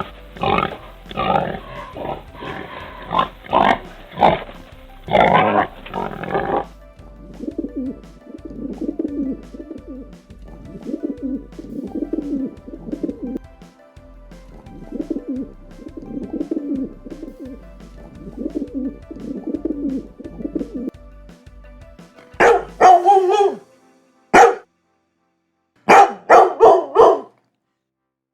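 Real animal calls played one after another over light background music. First comes a dense run of short calls for about six seconds. Then a low call repeats roughly every second and a half, and loud, sharp, short calls with gaps between them come near the end.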